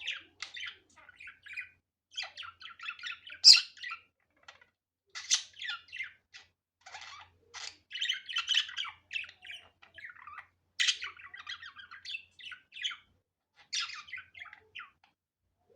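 Budgerigar chattering warble: a fast run of short chirps and twitters, broken by a few louder, sharper squawks.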